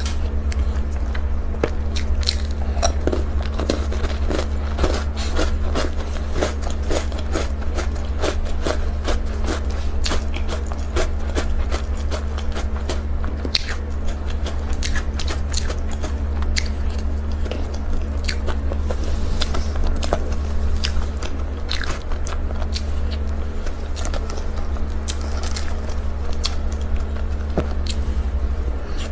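A person biting and chewing Oreo cake close to the microphone: many small crisp clicks and wet mouth sounds, at a steady pace of about two chews a second for the first few seconds. A steady low hum runs underneath.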